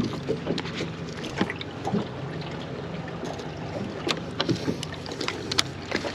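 Small fishing boat at sea: a steady low hum under irregular clicks and knocks of tackle and gear being handled aboard.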